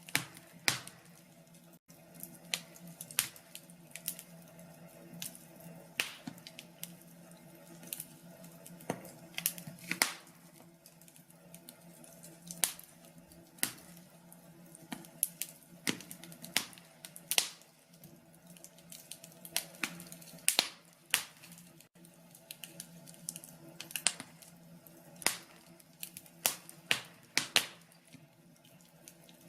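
Wood fire crackling in a fireplace: irregular sharp pops and snaps, one to three a second and uneven in strength, over a faint steady low hum.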